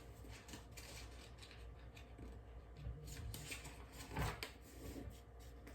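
Faint handling noises: light rustles and clicks, with a soft knock about four seconds in.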